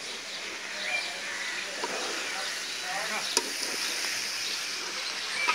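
Chickpeas sizzling as they fry in a metal karahi while a steel spatula stirs and scrapes through them. There is a sharp clink of the spatula on the pan about three and a half seconds in, and the sizzle grows louder in the second half.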